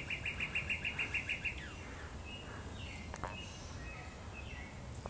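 A small bird singing: a rapid trill of about eight short, evenly repeated notes a second for about a second and a half, ending in a falling note, then scattered short chirps.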